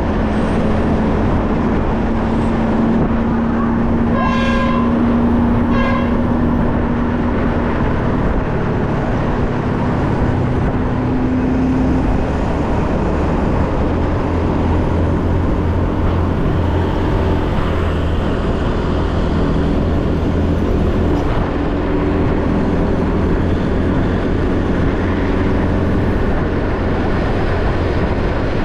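Motorcycle engine running steadily under way with wind and road noise, its pitch creeping up over the first dozen seconds. A vehicle horn beeps twice briefly, about four seconds in and again a second and a half later.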